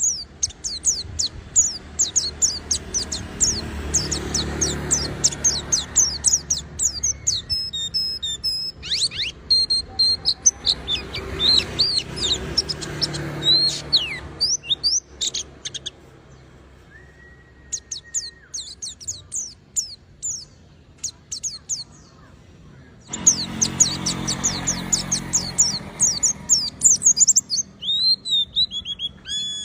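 White-eye (pleci) singing a fast, high twittering song in long unbroken runs. Partway through it thins to a few scattered notes for several seconds, then the rapid run resumes.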